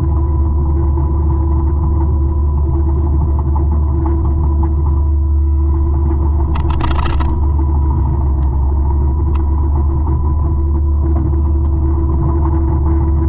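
A forestry mulcher of about 200 horsepower running steadily under load, with a deep, even drone. About halfway through there is a brief, sharper noisy burst.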